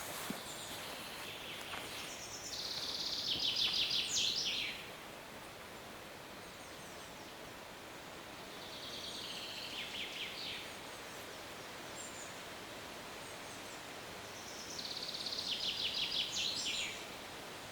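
A songbird singing the same short trilled phrase three times, about six seconds apart; each phrase runs as a fast trill and drops in pitch to a quick flourish at its end. A steady faint hiss of forest ambience lies beneath.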